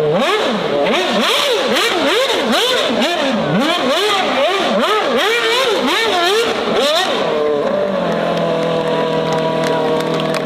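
A high-performance engine revved over and over, its pitch rising and falling about one and a half times a second. After about seven seconds it settles to a steady idle.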